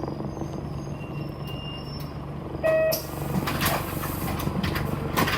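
City bus heard from inside: the engine runs steadily, a short electronic beep sounds about two and a half seconds in, and then compressed air hisses for a second or so.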